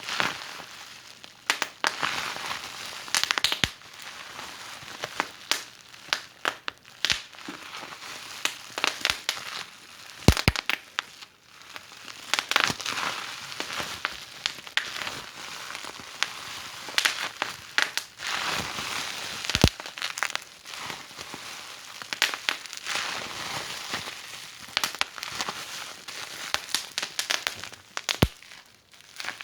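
Wood fire burning in a fireplace, crackling steadily with irregular sharp pops and snaps over a soft hiss.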